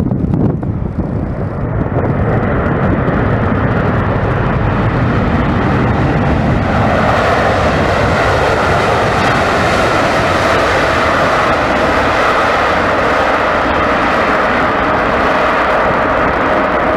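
Jet airliner's engine roar building about two seconds in and growing louder and brighter from about six seconds as the plane passes close by, with wind buffeting the microphone at the start.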